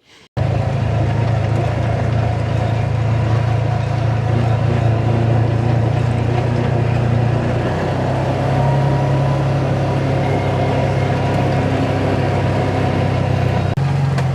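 Side-by-side UTV engine running steadily under way, a loud low drone that shifts pitch about eight seconds in and drops briefly near the end.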